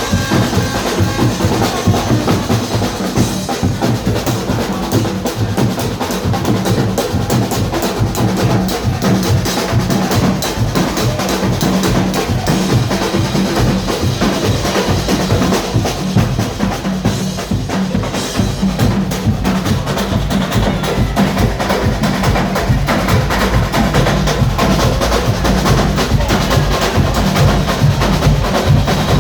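Carnival drum band playing a fast, steady beat on drums and percussion.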